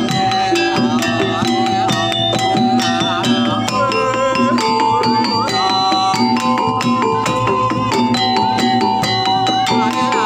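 Javanese jaranan pegon ensemble music played live: held, ringing metallic notes over fast, dense drum and cymbal strokes, with a wavering melody above.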